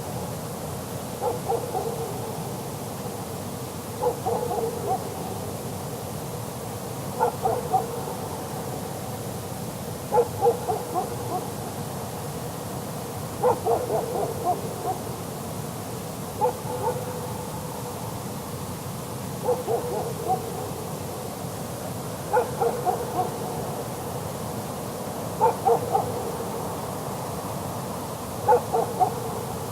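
A lone dog barking far off across mountain terrain: short clusters of barks about every three seconds, over a steady background hiss.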